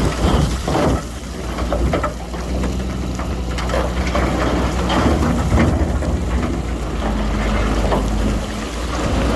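Heavy earthmoving machine's diesel engine running steadily, with irregular clattering and crackling over it.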